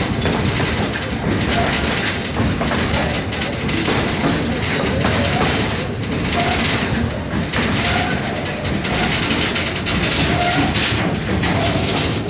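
Passenger train running along the track, heard from aboard an open-sided car: a steady noise of wheels on rails.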